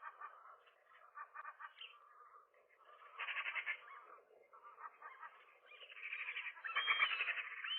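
Gulls calling in fast, pulsing bursts, louder about three seconds in and again from about six seconds, rising into wavering, drawn-out calls near the end; a brief dull bump comes shortly before the end.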